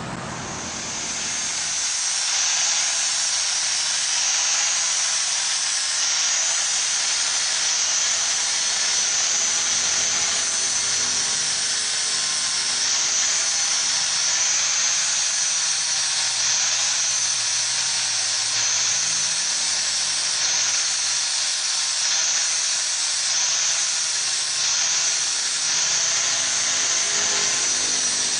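A steady, high-pitched hiss that builds in about a second in and holds on, with small dips in strength.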